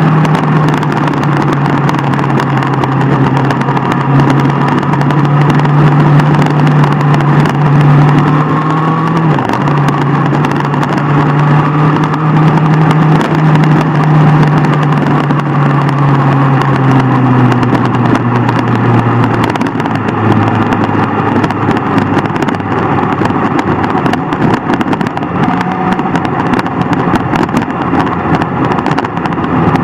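Sport motorcycle engine running at steady revs. Its note breaks briefly about nine seconds in and settles lower from about twenty seconds on.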